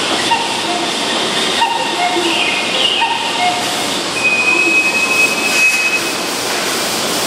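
A Keihan 7200-series electric train standing at the platform gives a steady hiss from its onboard equipment, with faint voices. About four seconds in, a thin high tone sounds for nearly two seconds.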